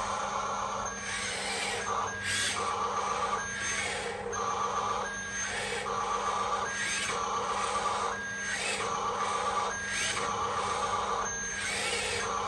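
A small toy RC truck's electric motor and plastic gears whirring and rasping in a regular on-off cycle, about once a second, over a steady low hum.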